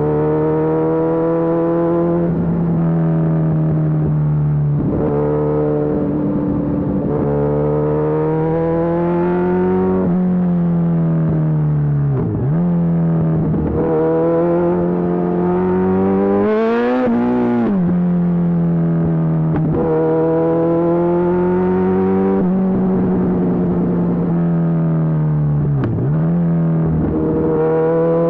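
Kawasaki Z1000SX inline-four running through an aftermarket Lextek full exhaust while ridden, holding a steady cruising note. The pitch dips briefly twice, a little under halfway and near the end, and rises sharply then falls back a little past the middle.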